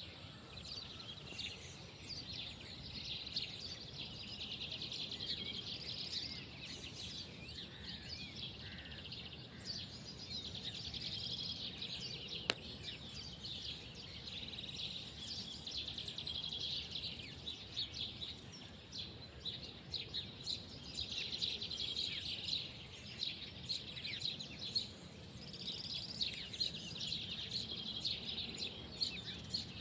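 Many small birds chirping and twittering together in a continuous outdoor chorus that swells and fades, over a low steady background rumble. A single sharp click about halfway through.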